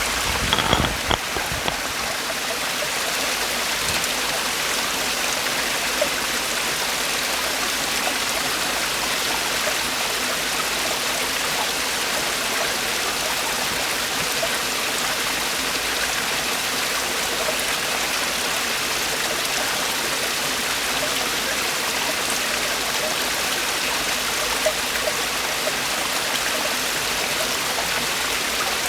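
Water of a mountain valley stream falling and rushing over rocks, a steady, even rush of water. A few brief thumps sound about a second in.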